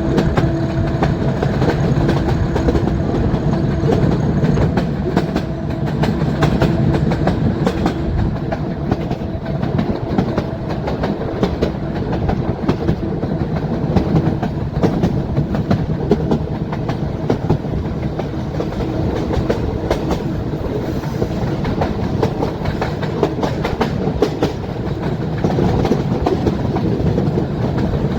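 Metre-gauge train running along the track, its coach wheels clattering steadily over the rail joints under a continuous rumble. A humming note sounds over the clatter for the first few seconds and then fades.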